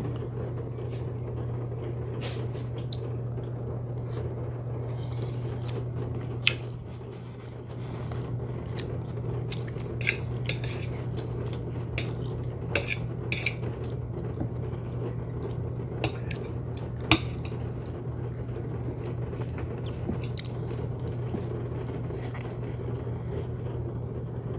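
Eating a meal: scattered sharp clicks of cutlery against a plate, with chewing, over a steady low hum.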